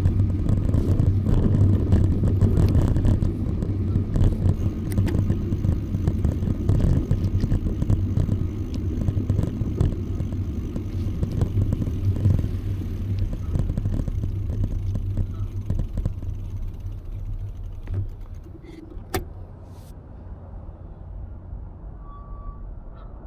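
Motor traffic rumbling close by, with a steady low hum, fading away over the last few seconds. A couple of sharp clicks sound near the end.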